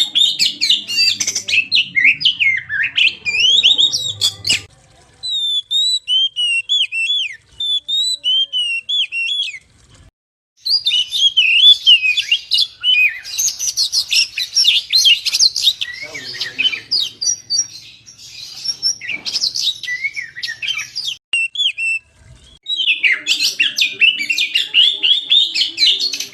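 Oriental magpie-robin (kacer) in full song: a fast, varied stream of high chirps, trills and whistles, broken by short pauses about five, ten and twenty-two seconds in.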